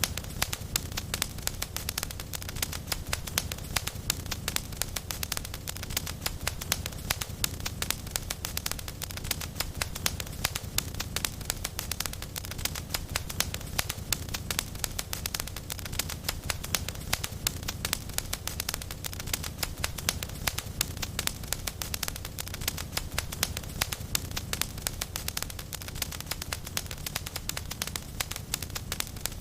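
Fireplace fire crackling steadily, with dense small pops over a low rumble of the flames.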